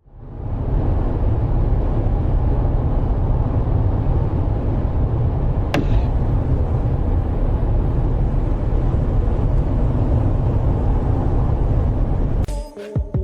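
Steady low rumble of a vehicle on the road, with one sharp click about six seconds in. Music starts near the end.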